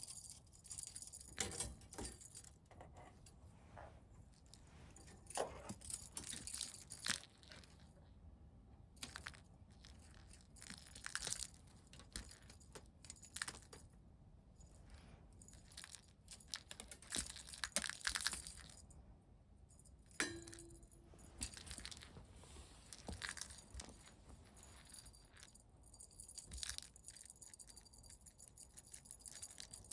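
A kitten playing with a toy: irregular jingling, rattling and rustling, in scattered bursts, with a brief steady tone about two-thirds of the way in.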